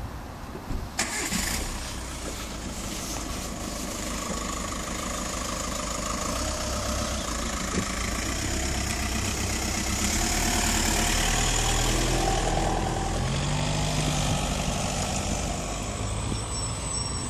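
Ford Mustang Boss 302 replica's engine starting about a second in, then idling.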